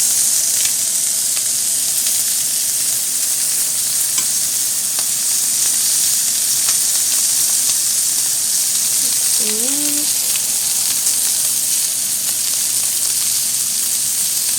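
Korean barbecue sizzling on a grill: a steady hiss of food frying in fat, with faint scattered crackles.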